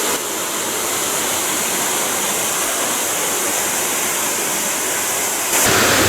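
Garden Creek Falls pouring down, a steady rushing roar of falling water that gets louder near the end.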